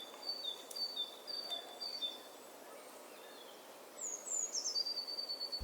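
A songbird singing clear whistled notes. First comes a run of short notes alternating between two pitches, about two a second. After a pause come a few quick falling notes ending on a held whistle.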